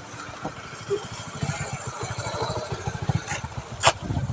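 Motorcycle engine running close by, its low pulsing growing louder from about a second in. A sharp click sounds just before the end.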